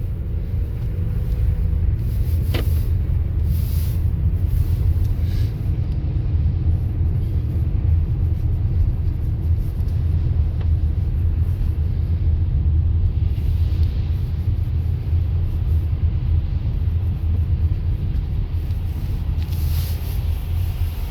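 Car driving, with a steady heavy low rumble of road and engine noise and a few brief hisses from tyres or passing traffic. A short falling squeak comes about two and a half seconds in.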